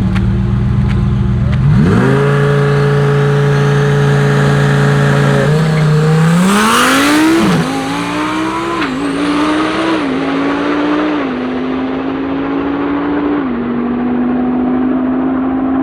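A 1,300 horsepower Lamborghini Huracán Performante's V10 is held at a steady high rev on the line, then launches, accelerating down the drag strip through a series of upshifts, each a rise in pitch followed by a drop, and gets quieter as it pulls away.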